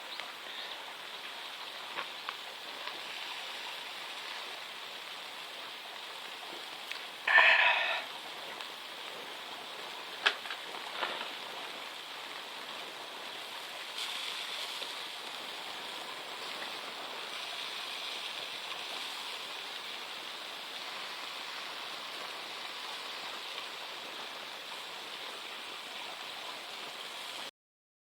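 Steady hiss of light rain falling. About seven seconds in there is one brief, louder rustle, and a couple of small clicks follow a few seconds later; the sound cuts off suddenly just before the end.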